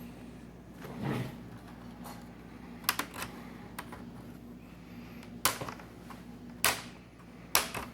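Plastic clips of a laptop screen bezel snapping loose as a plastic pry tool is worked along its edge: a soft scrape, then sharp plastic clicks, a quick double one about three seconds in and three single ones spaced a second or so apart near the end.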